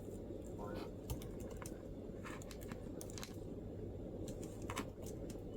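MacBook laptop keyboard being typed on: soft, irregular keystroke clicks over a steady low background hum.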